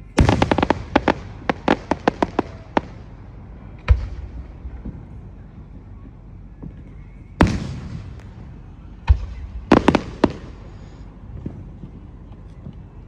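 Fireworks going off. A rapid string of sharp cracks runs through the first three seconds, single heavy booms follow about four and seven and a half seconds in, and another boom and a short cluster of cracks come around nine to ten seconds.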